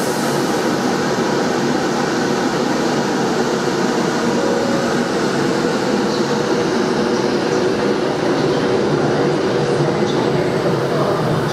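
Virgin Trains express passenger train running past close along the platform: a steady noise of wheels and running gear with a faint steady hum.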